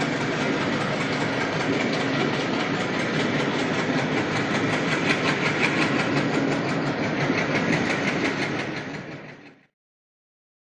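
Hussain Sagar Express passenger train running on the rails, a steady rumble that fades out about nine seconds in, leaving silence.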